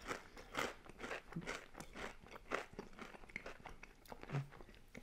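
Close-up chewing of a mouthful of thin, crispy homemade pizza crust: a crunch about every half second.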